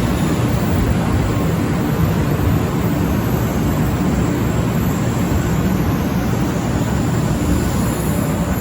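Steady rumble and rushing of a train in motion, heard from inside a passenger car.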